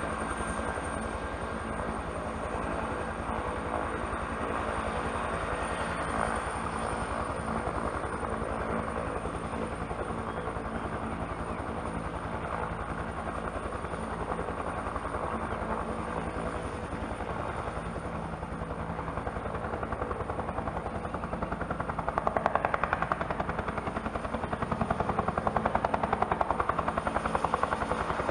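Bell turbine helicopter running, with a high steady turbine whine over the fast even beat of the rotor blades. It grows louder about 22 seconds in and again near the end.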